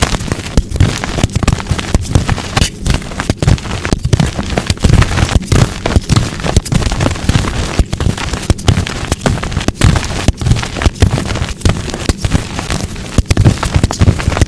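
Blocks of dyed gym chalk crushed by hand, a dense run of crunching, snapping crackles.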